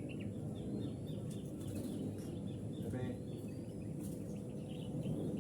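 Small birds chirping faintly with short, repeated notes over a steady low outdoor background rumble.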